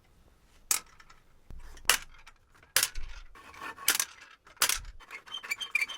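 Hard metal pieces clinking and knocking together, about six sharp clinks roughly a second apart, each ringing briefly, with light scraping between them.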